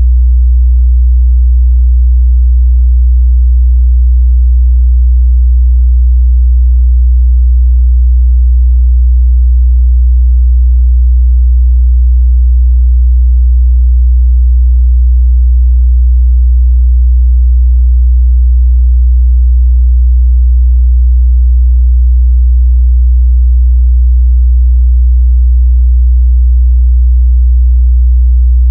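A steady, loud 61 Hz sine-wave test tone: a pure, unbroken low bass hum.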